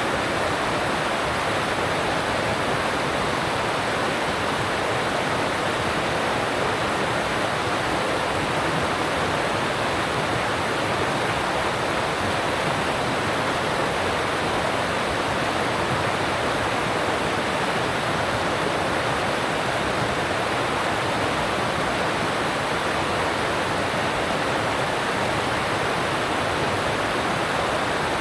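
Alpine stream rushing over rocks: a steady, even rush of water that does not change.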